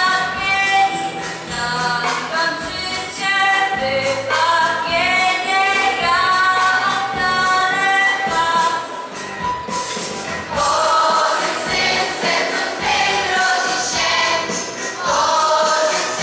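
Choir singing a Polish Christmas carol (kolęda), the voices moving through sustained sung phrases.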